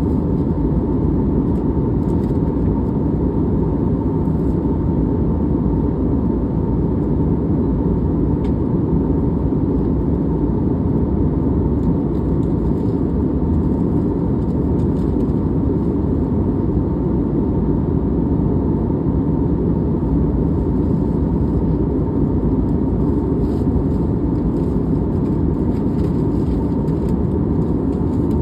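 Steady cabin noise of a jet airliner in flight: a constant low roar of engines and airflow with a faint steady hum on top.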